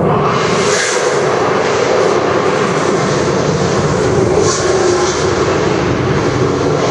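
Loud, steady roar of a Lamborghini Murciélago V12 engine sound, part of a sound-and-light show, with brief surges of high hiss about a second in and again at about four and a half seconds.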